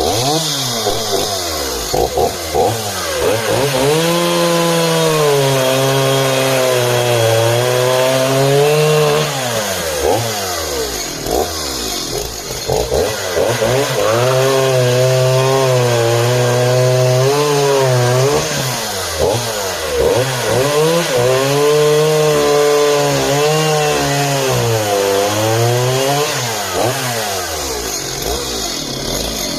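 Homelite 340 two-stroke chainsaw cutting through hard, dried wood. The engine pitch sags and wavers under load through several long cuts, with quick throttle blips revving it up and down between them.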